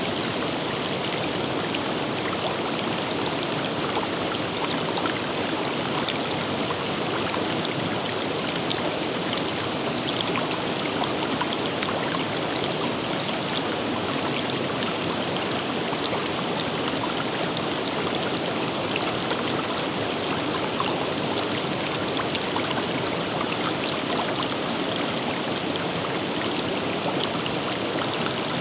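River water rushing and splashing over rocks, a steady even flow with fine droplet patter.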